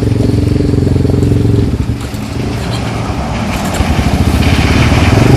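Engine of a mudding vehicle running under throttle as it drives through a creek bed, easing off about two seconds in and then growing louder as it comes closer.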